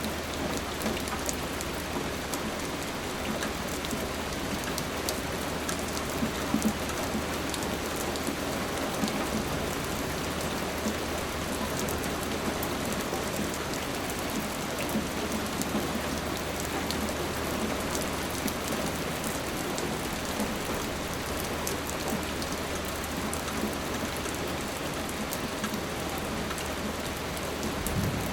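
Steady rain falling on a surface, with many individual drops ticking sharply through the constant hiss.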